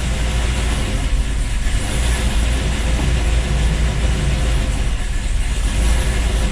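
Newly swapped Chevy 5.3 L LS V8 running steadily at a low, even speed. The owner suspects an exhaust leak.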